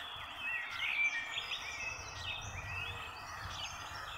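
Several birds chirping and calling in overlapping short, sweeping notes, over a faint steady outdoor background.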